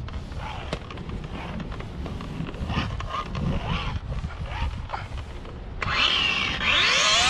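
Light clicks and rubbing over a low rumble, then about six seconds in a DeWalt buffer's electric motor switches on and its whine rises steadily in pitch as it spins up.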